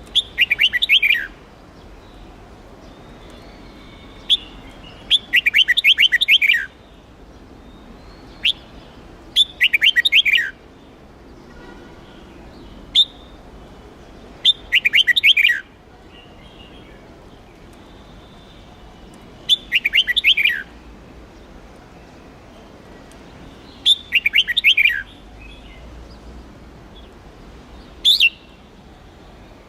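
Red-whiskered bulbul singing: six short, fast song phrases about every five seconds, each a quick run of high notes falling in pitch, with single sharp call notes in between.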